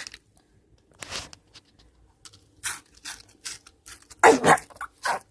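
Dry breakfast cereal crunching close to the microphone: a handful of short, irregular crackles, with a slightly louder burst about four seconds in.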